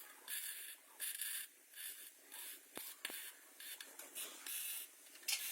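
Hand sanding of a car body panel: short rasping back-and-forth strokes, about two a second.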